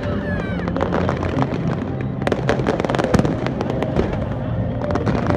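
Aerial fireworks going off in rapid succession, a dense run of cracks and bangs with a few short gliding whistles near the start.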